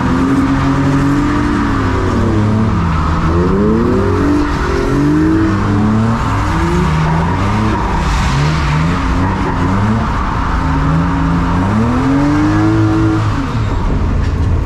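Several drift cars sliding in tandem on a wet track: more than one engine revving up and falling back again and again as drivers blip and hold the throttle, over steady tyre and road noise.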